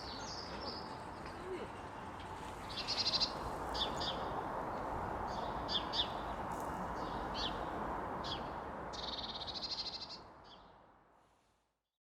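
European robin singing: a series of short, high-pitched phrases and trills over a steady background of city noise, fading out near the end.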